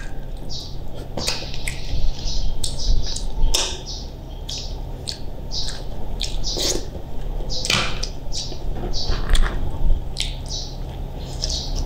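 Close-up wet eating sounds: irregular lip smacks, squelches and chewing clicks as seafood and rice are eaten by hand, with sticky finger and shell sounds from meat being picked out of a shell. A steady low hum runs underneath.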